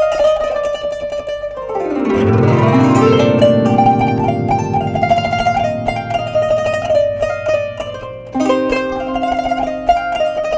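Kanun, the Turkish plucked zither, playing a fast picked melody. About two seconds in, a sweep down across the strings leaves low notes ringing, and the picked melody returns near the end.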